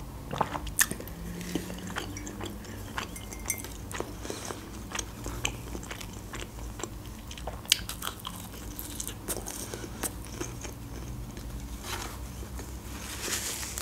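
Close-miked chewing of a soft, sugar-dusted doughnut (Leningrad pyshka), with scattered wet mouth clicks. Near the end a soft rustle begins.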